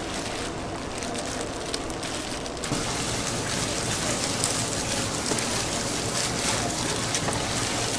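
Yakgwa dough deep-frying in hot oil: a steady, dense sizzling crackle that grows louder about two and a half seconds in.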